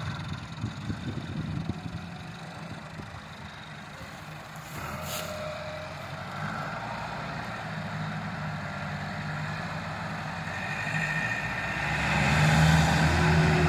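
Tractor engine running steadily, with some knocking in the first couple of seconds, then getting louder about twelve seconds in.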